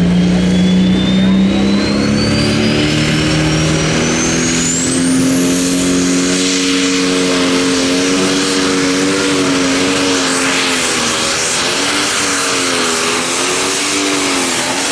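Turbocharged diesel engine of a light pro stock pulling tractor running hard under load. A high turbo whine climbs steadily for about five seconds and then holds. The engine note steps up partway through and wavers up and down near the end.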